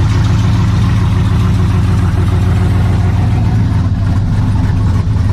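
V8 engine with aftermarket headers, idling steadily with a deep, even note.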